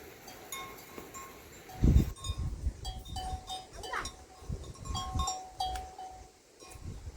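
Small livestock neck bells tinkling irregularly as a flock moves, with low thumps and rumbles from about two seconds in and a short rising call near the middle.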